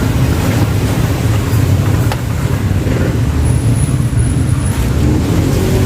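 Steady low motor-vehicle rumble, with a faint high whistle for about a second in the middle.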